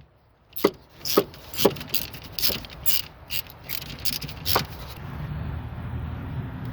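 A string of about nine sharp, irregular clicks and knocks over roughly four seconds, from hand tools and parts being handled during work on a car. A steady low hum follows near the end.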